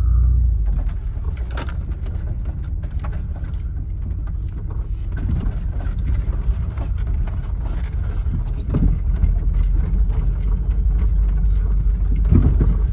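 Volkswagen Vanagon driving, its engine and road rumble heard from inside the van, with a few sharp clicks and rattles. The rumble grows louder about two-thirds of the way in.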